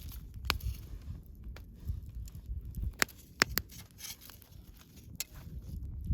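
Wood campfire crackling, with a few sharp pops, the loudest a quick cluster about three seconds in, over a low rumble.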